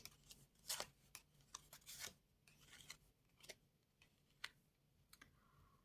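Faint, scattered clicks and rustles of playing cards being handled and laid out on a table.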